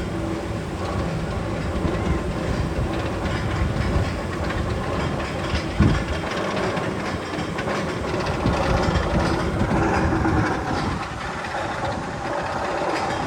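Magnum XL-200 coaster train rolling on its steel track, a steady rumble with clacking and one sharp knock about halfway through.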